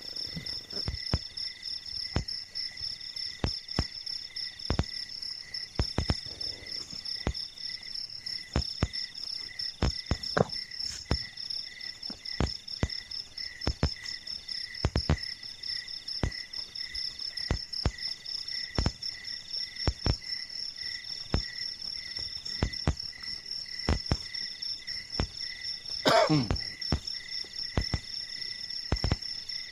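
Night chorus of crickets and other insects: steady, fast-pulsing high trills with a second trill switching on and off. Irregular soft thuds about once a second run under it, and one louder falling sound comes near the end.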